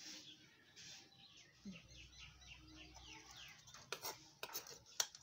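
Faint bird chirping, a quick run of short falling chirps, followed by a few sharp clicks near the end.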